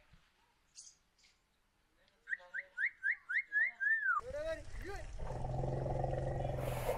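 White cockatoo calling: a quick run of short rising whistled calls, about four a second, ending on one longer falling call. About four seconds in, this gives way abruptly to a steady low drone over a hiss.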